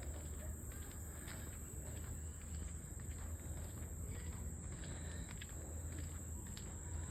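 Outdoor ambience: a steady high-pitched insect chorus over a low, even rumble, with a few faint ticks.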